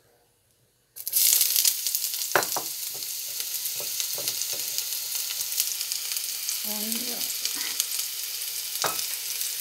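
Diced onion frying in hot oil in a black pot: a loud sizzle that starts suddenly about a second in, as the onion hits the oil, then carries on steadily, with a couple of sharp knocks.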